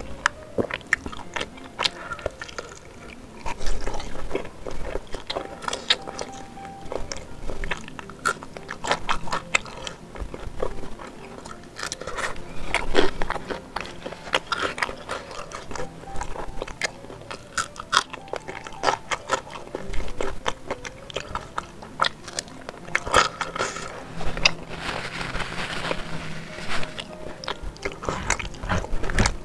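Close-miked chewing and biting on spicy chicken sempol: a run of irregular wet smacks, squelches and clicks of a mouth working soft, saucy food.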